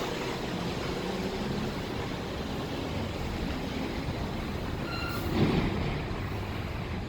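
New York City subway train running on elevated track: a steady rumble and rattle of wheels on rail. About five seconds in comes a brief high squeal, then a single louder thump.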